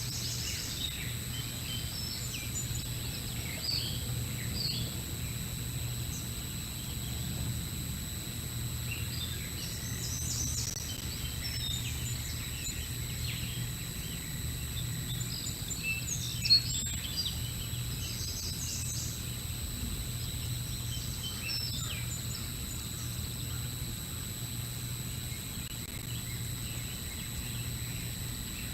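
Birds chirping and calling in scattered short notes over a steady low electrical hum from an outdoor nest-camera microphone, with one sharp click about two-thirds of the way through.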